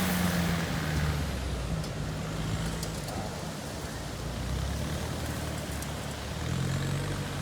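Four-wheel-drive vehicle engine running under load, its revs rising and falling, as a truck bogged in soft beach sand is driven or towed out, over a steady wash of wind and surf noise.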